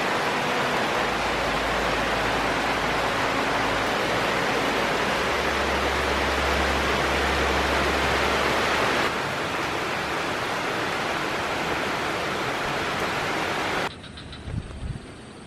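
A steady rushing hiss of falling water. It eases slightly about two-thirds of the way through, then drops suddenly to a much quieter hiss with a few faint clicks near the end.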